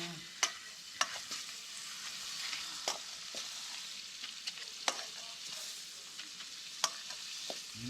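Hot oil sizzling in a cooking pot, with a few sharp clicks of a utensil against the pot, about every one to two seconds.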